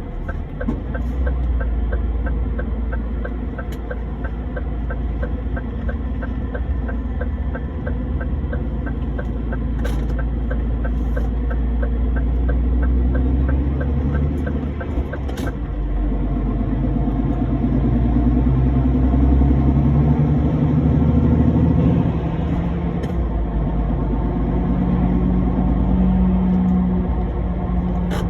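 Truck engine running while driving, its note rising in the second half as it picks up speed. A quick, even ticking runs over it for roughly the first half.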